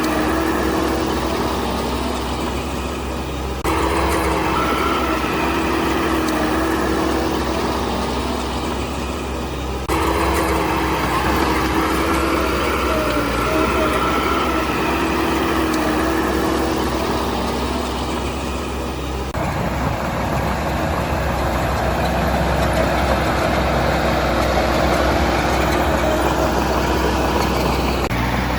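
Diesel engines of heavy construction machinery running steadily, with a low rumble and a steady whine, changing abruptly a few times as the scene cuts.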